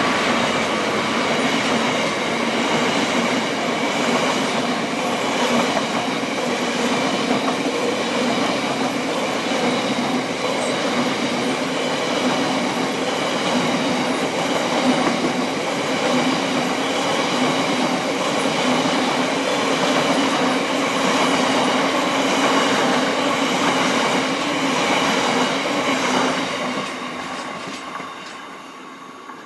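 A train passing along the rails, its wheels running steadily with high, steady squealing tones above the rumble; the sound fades away over the last few seconds as it draws off.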